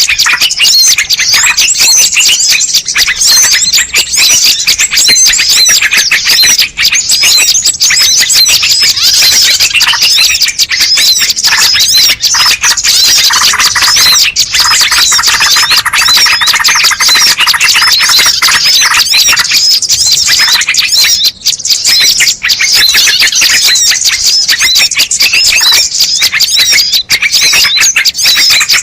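Dense, unbroken chorus of many small birds chirping and calling over one another, loud throughout: a bird-lure (pikat) recording meant to draw in all kinds of birds.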